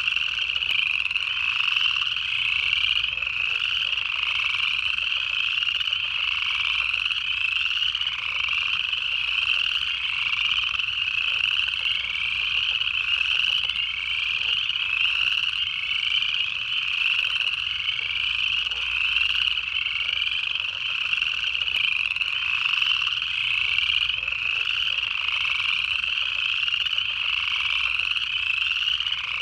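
Dense chorus of upland chorus frogs: many overlapping ascending trills repeating about once a second, steady throughout.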